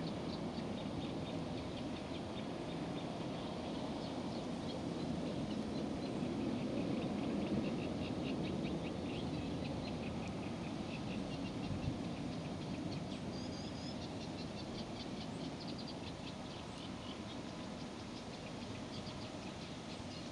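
A small bird chirping in quick, repeated high notes over a steady low rumble that slowly fades.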